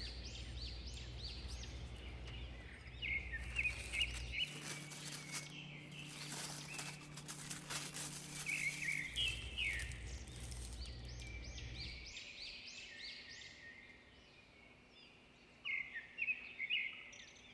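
Small birds chirping in runs of quick, repeated rising notes over a low steady hum. In the middle, paper rustles and crinkles for several seconds as a sheet of paper is handled.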